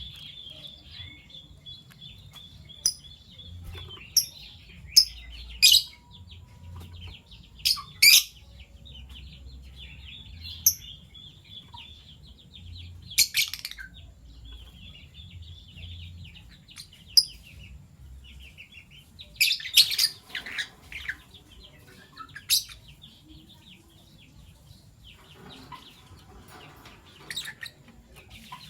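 Fischer's lovebirds chirping: a dozen or so short, shrill chirps scattered irregularly over a softer, continuous high-pitched chatter.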